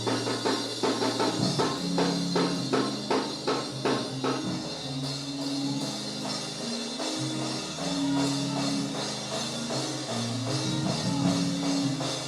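Church band music: a drum kit playing quick, steady hits for the first four seconds or so, then held low chords that change every second or so while the drums drop back.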